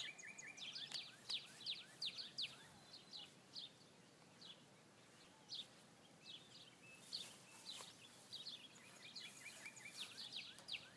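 Faint bird chirping: many short, sharp calls in quick clusters, busiest near the start and the end with a thinner stretch in the middle.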